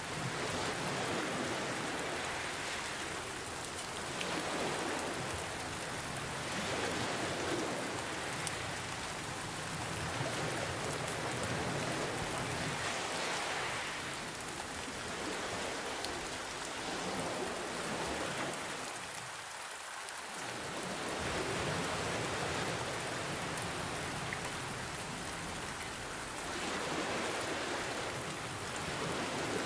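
Steady rain mixed with ocean waves that swell and ease every few seconds.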